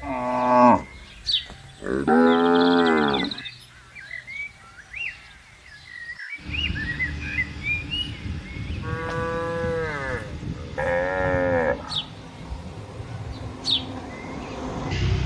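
Cattle mooing: four drawn-out calls, each about a second long and dropping slightly in pitch. Birds chirp in the pause between the second and third moo.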